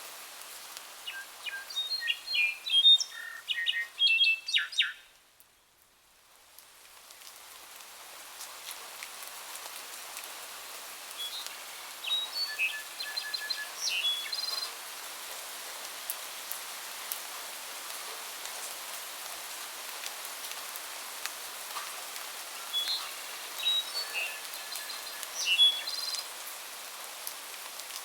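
Songbirds singing in short bursts of chirps and trills, in three separate spells, over a steady hiss of rain. About five seconds in, everything drops away to near silence for a moment, then the hiss fades back in.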